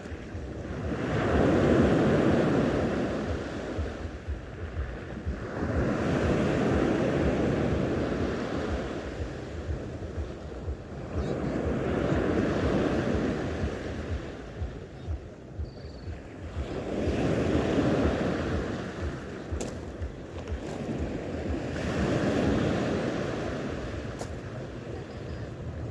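Sea waves washing onto the shore in slow surges, about every four to five seconds, with wind buffeting the microphone.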